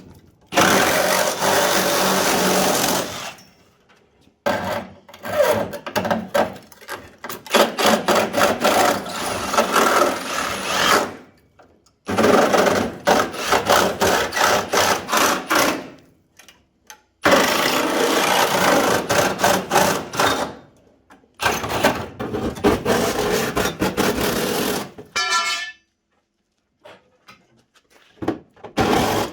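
A power tool working on a car's steel body, run in about five bursts of several seconds each with short pauses between, with a fast rattle in the noise.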